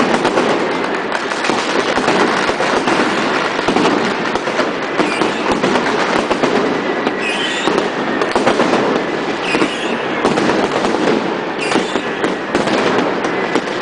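Dense, continuous crackle and banging of many fireworks and firecrackers going off at once all around, with no let-up.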